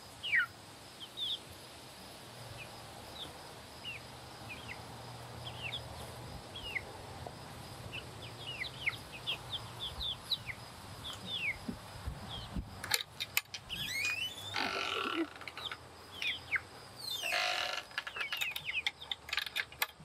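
Birds chirping: many short, high chirps that fall in pitch, with a few sharp knocks about two-thirds of the way in and two louder, harsher calls near the end.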